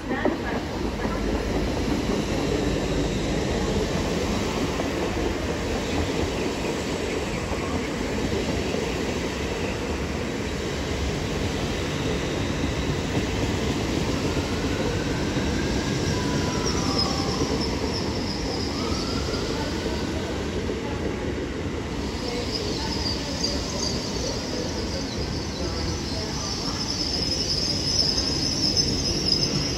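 Two coupled Hitachi Class 800 IET trains rolling slowly along the platform as they pull in, with a steady rumble of wheels on rail. A high squeal joins about halfway through and grows louder near the end, as the train slows to stop.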